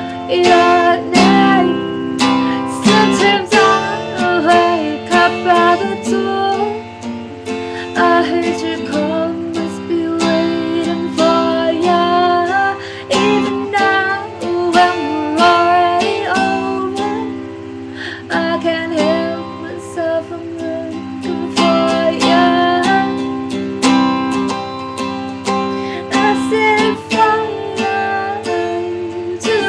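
A solo voice singing over a strummed acoustic guitar.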